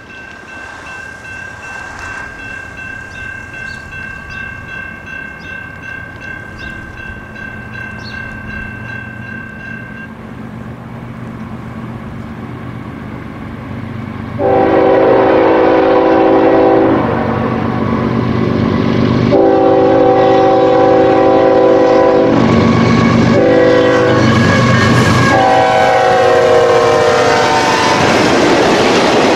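CSX freight train led by two GE ES44AH diesel locomotives approaching, its engines growing steadily louder, then sounding the air horn in about four blasts from about 15 seconds in. The last blast drops in pitch as the locomotives pass, and freight cars clatter by near the end.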